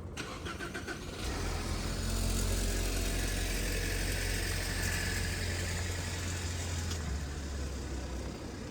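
A motor vehicle's engine running close by on a city street. The sound swells about a second in as the vehicle passes or pulls away, holds a steady low hum, then eases off near the end.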